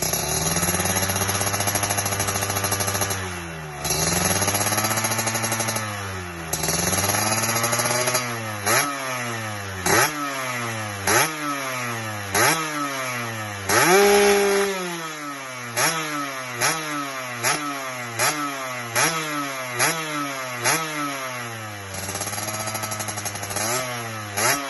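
Yamaha RX-King's 135 cc two-stroke single-cylinder engine revved through an aftermarket under-belly (kolong) expansion-chamber racing exhaust. It holds a few longer revs, then is blipped over and over, about once a second, with one sharp high rev in the middle before settling into a steadier rev.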